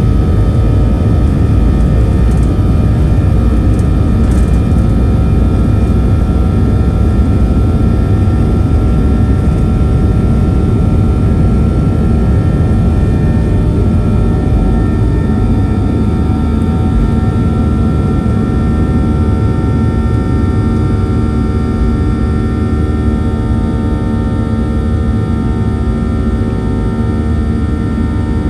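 Boeing 737-900's CFM56-7B turbofan engines running at high thrust, heard from inside the cabin: a steady low rumble with a steady whine, easing off slightly near the end.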